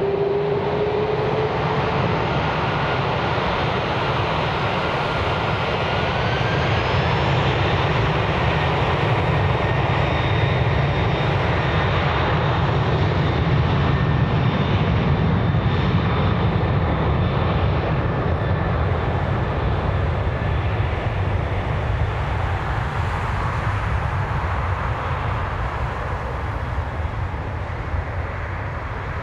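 Jet airliner engines passing close by, a steady heavy rumble with a high engine whine. It grows to its loudest about halfway through, then slowly fades.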